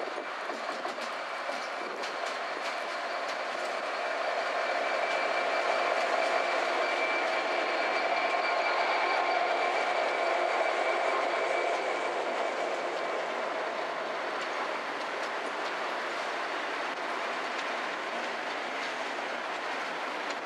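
A train passing, wheels clattering over the rail joints with a steady whine above the rumble; it builds to its loudest about a third of the way in, then slowly fades.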